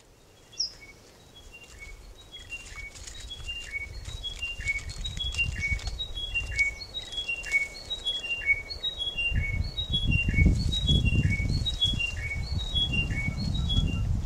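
Chiming wedgebill singing: phrase after phrase of clear chiming notes, each phrase stepping down in pitch, about one a second. A low rumble joins in from about nine seconds in.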